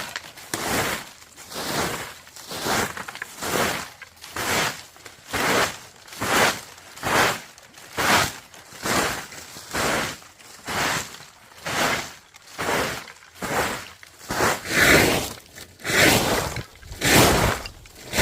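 Steady, rhythmic scraping strokes, a little more than one a second, as of a tool such as a broom or rake being worked over the ground.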